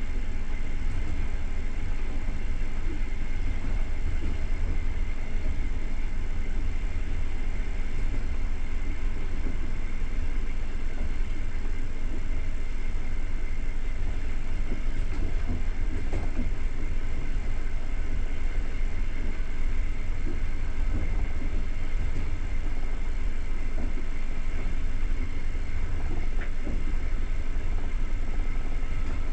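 Passenger train running along the line: a steady low rumble of wheels on rails, heard from inside the coach.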